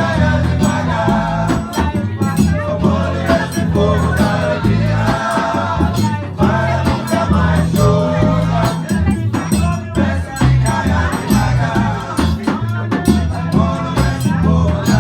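Live band music: a full song with a heavy bass line, percussion and singing.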